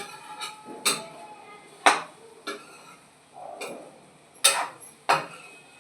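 Metal utensils clinking and knocking against a cooking pan at irregular intervals, about eight sharp clinks.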